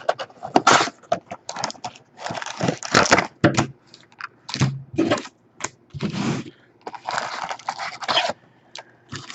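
Trading-card packaging being handled and torn open: crinkling and tearing of pack wrappers and cardboard box in a run of irregular rustling, crackling bursts with short pauses between them.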